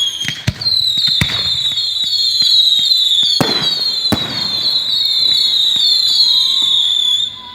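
Fireworks bursting at a distance, several bangs with the loudest about three and a half seconds in. Under them runs a loud, high, falling chirp repeated two or three times a second, which stops shortly before the end.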